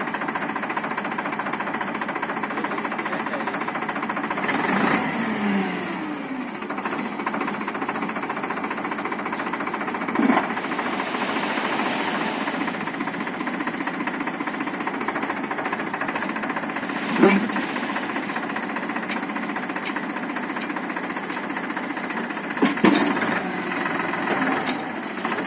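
Powertrac tractor's diesel engine running steadily with a rapid hammering note, with a brief falling pitch about five seconds in and a few sharp, loud knocks later on.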